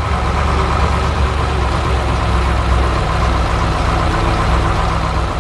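Road roller's heavy engine running steadily at low revs, a constant low rumble.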